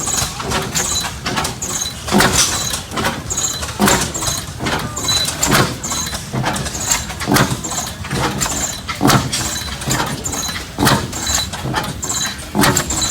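Large, slow-running antique stationary gas engine firing, one heavy exhaust beat about every 1.7 seconds, over the steady clatter of machinery.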